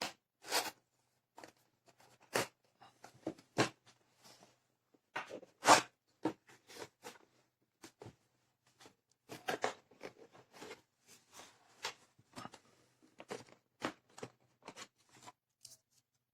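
Irregular clicks, crinkles and rustles of something being handled, about a dozen sharp sounds with short rustling between them, the loudest about six seconds in.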